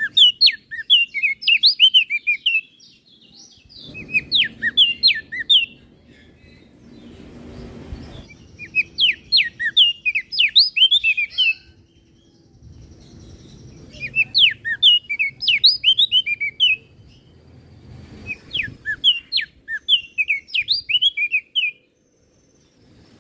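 Crested darkeye (opior jambul) singing: five quick phrases of rapid, high, sharply swooping chirps, each two to three seconds long with short pauses between, over a faint low background rumble.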